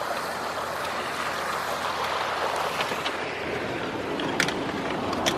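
Steady rushing noise of a car driving through a flooded street, water washing around the tyres, with wind on the microphone. Two short sharp clicks near the end.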